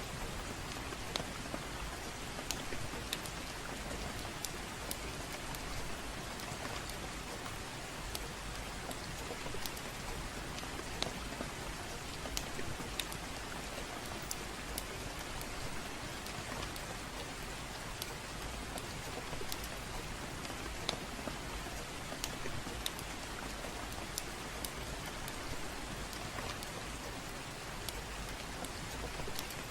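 Steady gentle rain mixed with a crackling fireplace: a constant hiss of rain dotted with scattered sharp crackles and pops.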